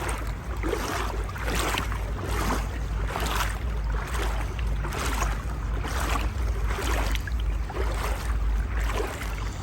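Wading strides through knee-deep floodwater, a swishing slosh about once a second, over a steady low rumble of wind on the microphone.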